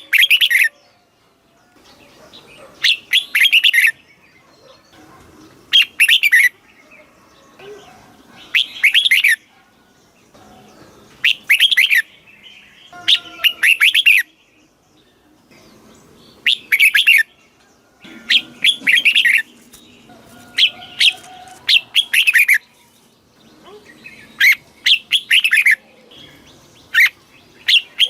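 Red-whiskered bulbul singing: short, loud, warbling phrases of quick up-and-down notes, about a dozen of them, each a second or less, coming every two to three seconds.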